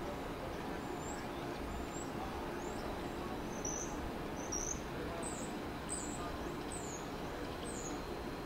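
A small bird giving a string of about nine short, high, down-slurred chirps, roughly one a second, over a steady low outdoor background hum.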